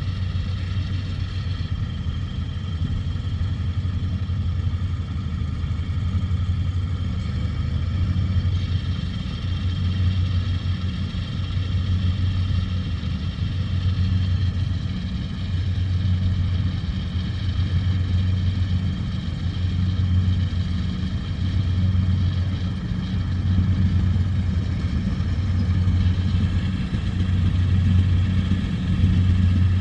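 Rice combine harvester's diesel engine and threshing machinery running steadily under load: a low drone that swells and eases every couple of seconds, with a steady whine higher up.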